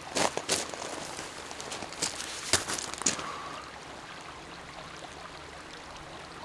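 Water trickling and lapping at a lakeshore, with several sharp clicks and taps in the first three seconds.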